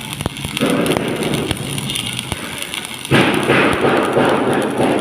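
Electric arc welding: a steady crackling that starts suddenly about half a second in and gets louder about three seconds in.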